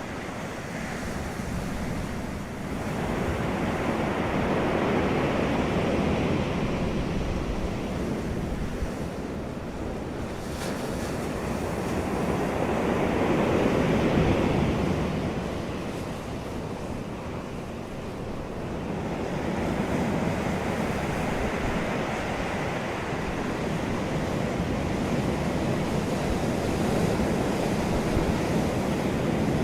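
Wind gusting across the microphone, a rushing noise with a low rumble that swells and eases every few seconds.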